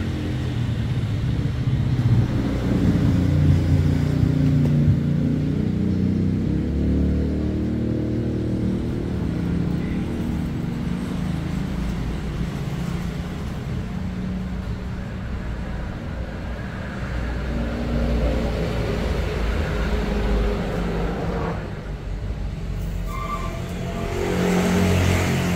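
Small CNC router running as it mills a circuit board, a continuous motor sound whose tones shift every second or two as the machine moves.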